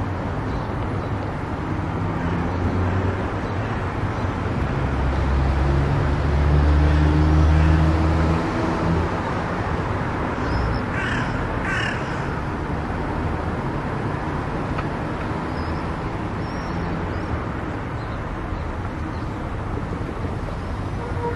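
Steady tyre and engine noise of a car cruising on an expressway, growing louder for a few seconds about five seconds in. Two short rising cries sound about halfway through.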